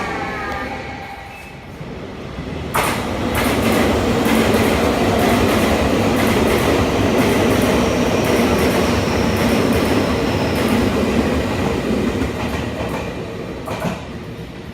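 Train running close by on the tracks: a loud rumble with wheel clatter that comes on abruptly about three seconds in, holds steady, then dies down near the end.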